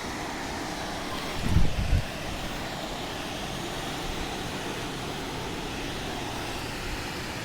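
Wind rushing over the microphone, with a loud low buffet about one and a half seconds in.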